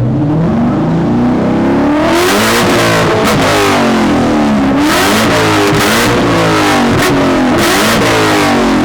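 Corvette V8 with a performance exhaust being revved repeatedly, the engine note rising and falling about once a second, growing louder and harsher from about two seconds in.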